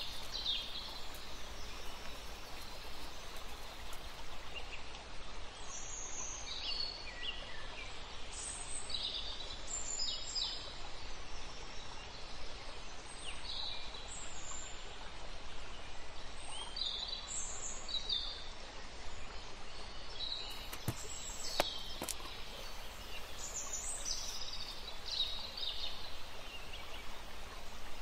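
Scattered high bird chirps over a steady low background noise, with a couple of sharp clicks about three-quarters of the way through.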